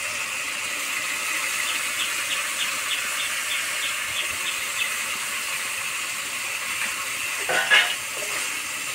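Oil and masala-coated potatoes sizzling in an iron wok as dried shredded cabbage is dropped in: a steady hiss, with a brief louder sound near the end.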